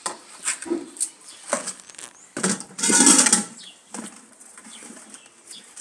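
Hands working on a freshly singed whole chicken, pulling off the remaining feathers. A few soft knocks and rustles are followed a little before the middle by a louder rustling scrape of about a second.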